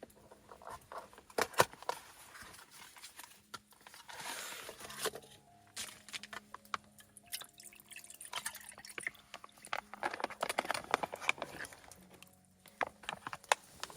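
Liquid pouring and sloshing, likely the broth of Shizuoka-style oden, with scattered sharp clicks and knocks of handling. Soft background music runs underneath.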